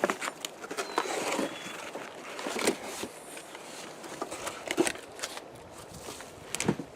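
Cardboard packaging being handled and torn open: rustling and crinkling with scattered clicks and knocks as boxed parts are pulled out.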